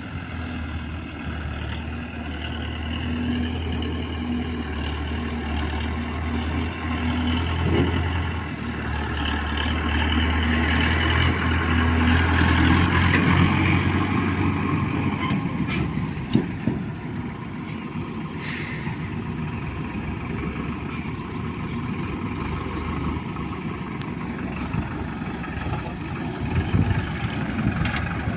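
Heavy diesel engine running steadily, getting louder as it works harder through the middle, then settling to a rougher, lower running sound, with a few knocks.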